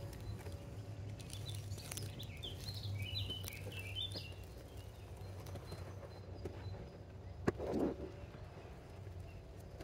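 A small songbird twittering a quick, warbling phrase for a couple of seconds, over a low steady hum. A sharp knock and a brief rustle come about three-quarters of the way through.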